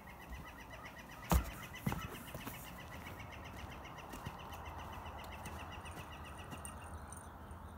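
A bird calling outdoors: a long, even series of short high chirps, several a second, that stops near the end. Two sharp knocks come between one and two seconds in.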